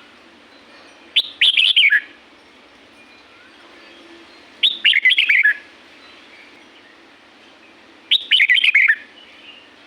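Red-whiskered bulbul singing: three short, quick warbling phrases, each about a second long and about three seconds apart.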